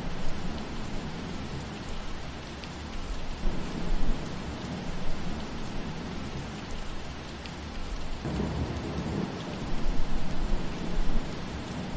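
Steady rain falling through trees, an even hiss with a few faint drop ticks. A deep low rumble swells and fades about a third of the way in, and again for a few seconds past the middle.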